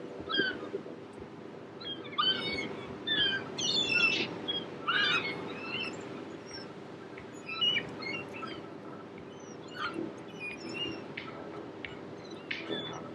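Small birds chirping and singing: a busy run of quick calls in the first few seconds, then scattered chirps, over a faint steady hum.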